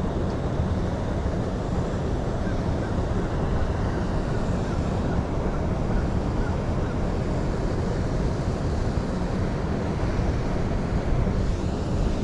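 Steady rush of a fast-flowing mountain stream, with wind buffeting the microphone.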